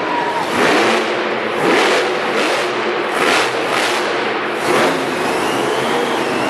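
Monster truck engine revving hard, swelling in four loud surges about a second or so apart.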